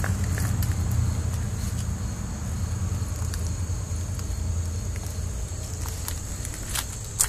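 Toyota 4Runner engine idling: a steady low rumble.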